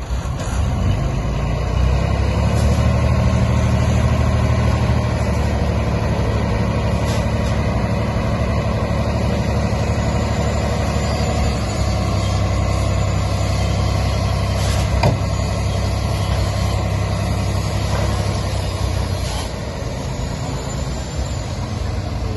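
Heavy diesel engine running steadily, louder after the first couple of seconds. Its note drops a little past the middle, and there is one sharp knock about two-thirds of the way through.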